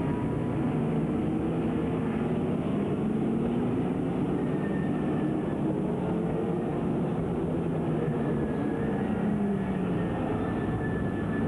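Stock car engines running on the oval, several at once, their pitches rising and falling as the cars pass.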